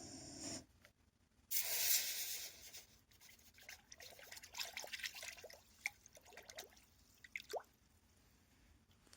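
Hot forged steel dunked into a quenching liquid: a loud hiss about one and a half seconds in that fades, followed by scattered bubbling plops and clicks that die away.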